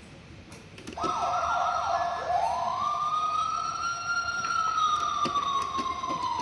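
Toy fire truck's electronic siren starting about a second in, after a couple of faint clicks. It opens with a quick run of falling yelps, then settles into one slow wail that rises and then gradually sinks.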